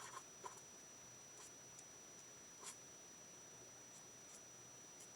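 Near silence broken by a few faint, short taps and scratches of a felt-tip marker on cardstock.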